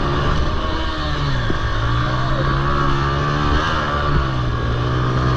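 Small four-stroke Honda TRX90 quad engine running hard in a race. Its pitch drops about one and a half seconds in as the throttle eases, then holds steady, over a low rumble.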